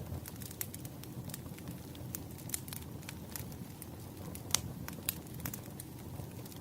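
Wood fire crackling: irregular sharp pops and snaps over a low steady rumble, with one louder pop about four and a half seconds in.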